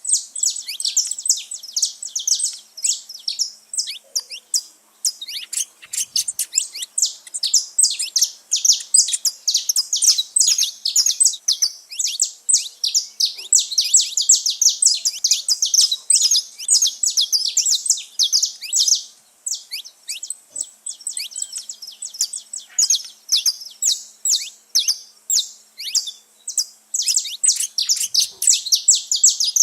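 Several saffron finches singing and chirping together in a dense, overlapping run of quick high notes, with a short lull about two-thirds of the way through.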